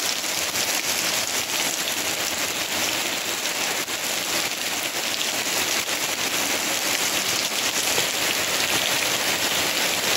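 Steady rain shower: an even, unbroken hiss of falling drops.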